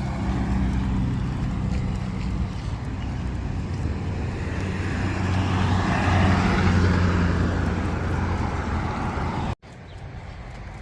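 A motor vehicle running close by: a steady engine hum with road noise that swells to its loudest past the middle, as if driving past. It cuts off suddenly near the end, leaving quieter outdoor background.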